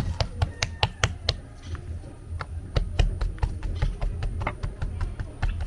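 Quick, irregular knocking and tapping, several knocks a second, from food preparation by hand.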